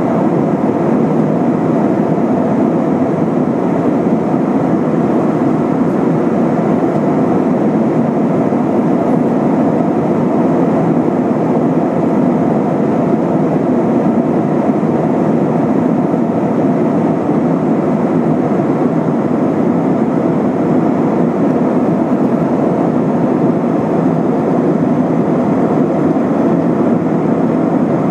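Steady cabin noise inside an Airbus A320-232 in flight: an even rumble of engines and airflow with no changes.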